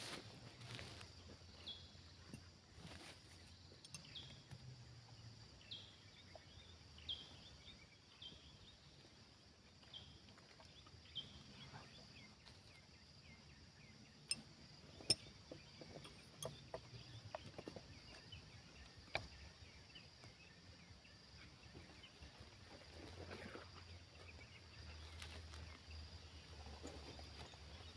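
Faint rural outdoor ambience: a series of short, high, downward chirps from a small bird, scattered sharp clicks, and a faint low hum that comes and goes.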